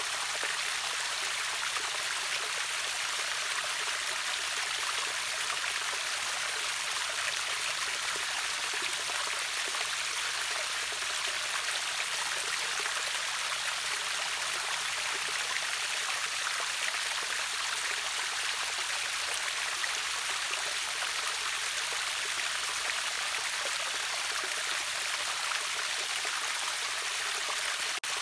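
River water flowing over a waterfall: a steady, unbroken rush of moving water, bright and hissy with little deep rumble.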